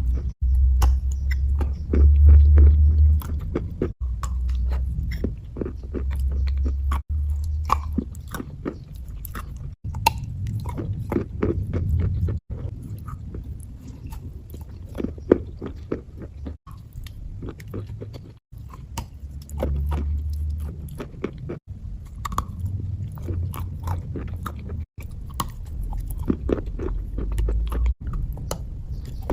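Close-up ASMR crunching and chewing of a crunchy material mixed with a wet paste: dense, irregular crackly bites, broken every few seconds by a brief gap where short clips are spliced together.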